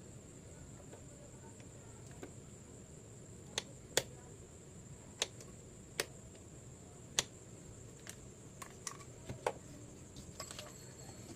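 Irregular sharp clicks and taps of small hard objects, about seven plain ones and a few fainter ones, over a faint steady high-pitched whine.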